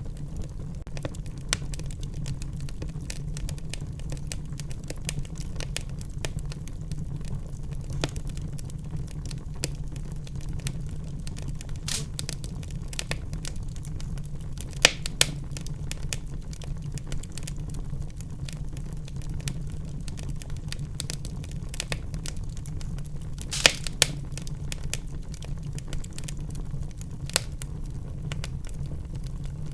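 Wood fire in a fireplace crackling: a steady low roar of the flames under constant small snaps and ticks, with a few louder pops, the sharpest about halfway through and again about three-quarters of the way in.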